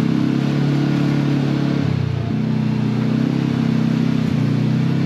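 Side-by-side UTV engine running under load on a rocky trail; its note drops briefly about two seconds in as the throttle eases, then picks back up.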